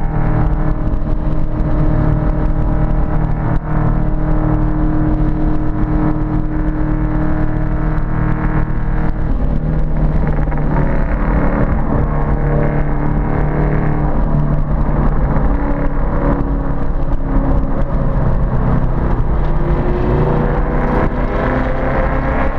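Ford Mustang Boss 302's V8 engine running hard at track speed, its pitch holding through long stretches and climbing near the end as it revs up.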